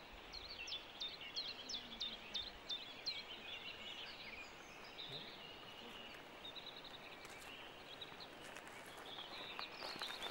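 Songbirds singing: one bird repeats a short, sharp, high note about three times a second for roughly three seconds, then softer twittering follows, with more calls later on. Near the end come a few footsteps.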